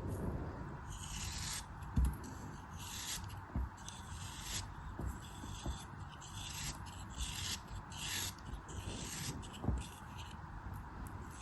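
A blade cutting and scraping through a crumbly craft material, in a run of short rasping strokes a little more than one a second, with an occasional soft thump.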